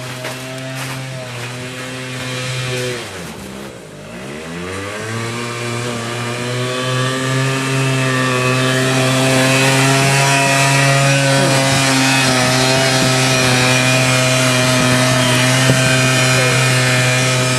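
Quad bike (ATV) engine running; it drops off sharply about three seconds in, revs back up and then holds at a steady high pitch, growing louder.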